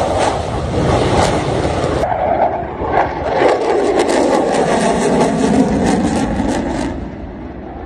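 Loud, steady vehicle noise, changing abruptly about two seconds in and again at the very end, as the footage cuts from one shot to the next.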